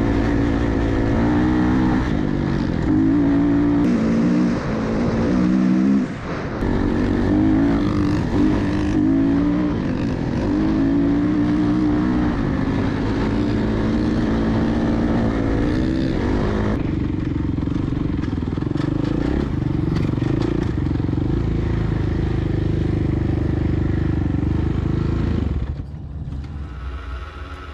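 Off-road vehicle engine driving and revving, its pitch rising and falling repeatedly, then holding a steady pitch before it drops off sharply near the end.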